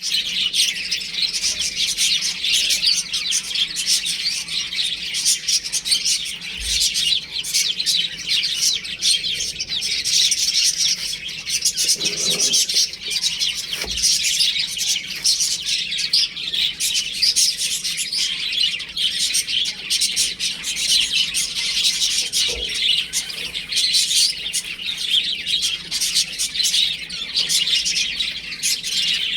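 A brood of baby chicks peeping continuously: many short, high chirps overlapping without a break. A few soft low thumps come through now and then.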